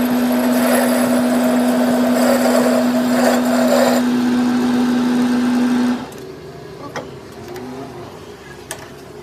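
A workshop machine's motor running with a steady hum, cut off suddenly about six seconds in, after which only a few light clicks are heard.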